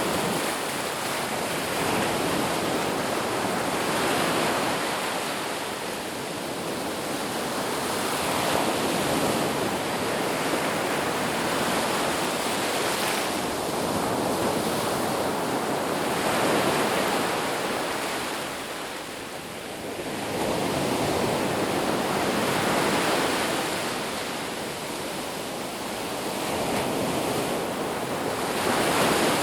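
Ocean waves breaking on a beach: a continuous wash of surf that swells and eases every few seconds as each wave comes in.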